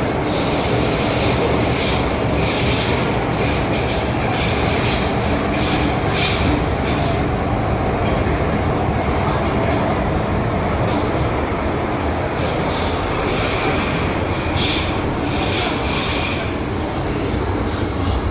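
First-generation MTR M-Train electric multiple unit (set A161/A162) running along the track with a steady rumble, with brief high-pitched wheel squeals coming and going every second or two.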